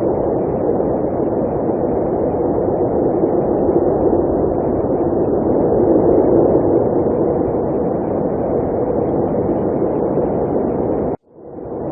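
Blizzard wind blowing as a steady, deep rushing noise. It cuts out suddenly near the end and swells back in.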